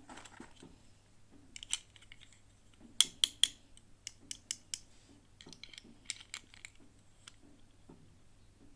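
Small hard plastic pieces and packaging clicking and tapping as they are handled, with three sharp, loud clicks in quick succession about three seconds in and lighter scattered clicks after.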